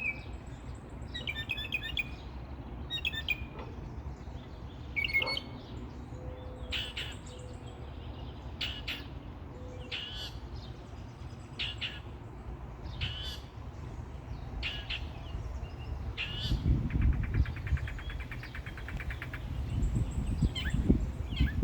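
Birds chirping: short calls repeated about every second, with a fast rattling call for a couple of seconds about 17 s in, over a steady low rumble.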